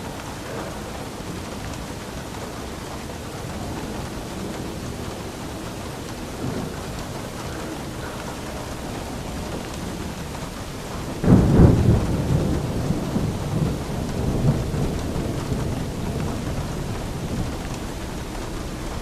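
Steady rain falling, with a clap of thunder about two-thirds of the way through: a sudden loud crack that rolls on as a rumble and fades over several seconds.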